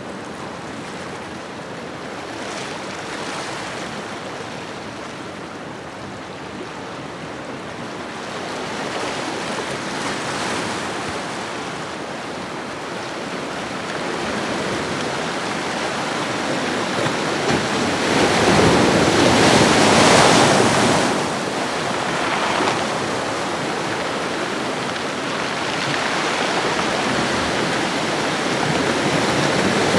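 Ocean waves washing on a shoreline: a continuous rush of surf that swells and eases in slow surges, the biggest wave breaking about two-thirds of the way in and another building near the end.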